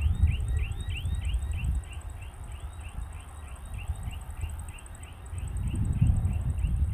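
Wind buffeting the microphone in gusts, strongest at the start and again around six seconds in, over a steady run of short, evenly repeated chirps a few times a second and a faint, fast high ticking, as of birds or insects.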